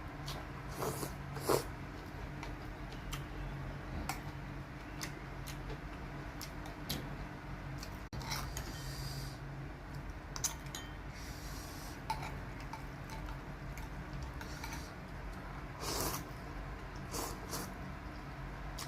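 Close-up eating sounds of bún riêu noodle soup: slurping and chewing, with scattered sharp clicks of utensils against the bowl, over a steady low hum.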